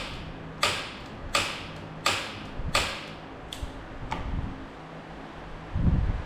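Starter solenoid on a Polaris Sportsman 850 ATV clicking over and over, about one and a half clicks a second, without the engine winding over: the battery lacks the power to turn it, though the owner suspects the engine could be seized. The clicks stop after about four seconds, and a low thump comes near the end.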